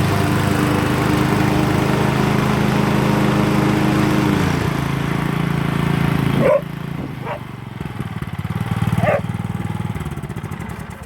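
Yard Machines riding mower's engine running steadily on a test run after an oil change and freshly sharpened blades. About four and a half seconds in its pitch drops, and about two seconds later it suddenly goes much quieter.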